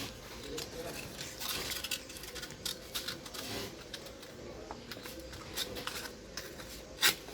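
Scattered light clicks and taps of small metal tools and parts being handled, with a sharper click about seven seconds in, over a faint steady hum.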